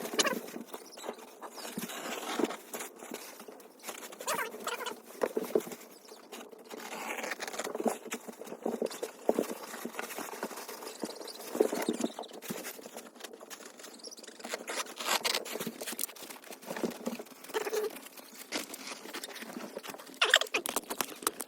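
A litter of young puppies scrabbling about in their pen: irregular pattering, scratching and rustling of small paws.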